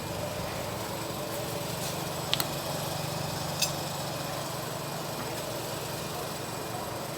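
Two quick sharp metallic clinks a little over two seconds in and a third about a second later, over a steady low hum.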